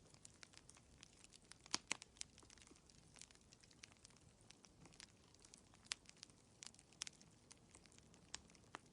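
Wood fire crackling in a fireplace: faint, irregular sharp pops and snaps over a low hiss, with the loudest pair of snaps about two seconds in.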